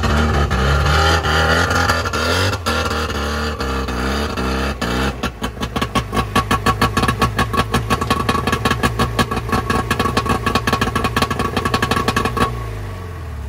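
Trabant two-cylinder two-stroke engine running. It shifts up and down in pitch at first, then settles into a fast, even popping beat, and fades out near the end.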